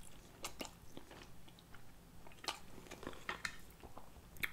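Close-miked chewing of spicy ramen noodles: faint, scattered wet mouth clicks and smacks.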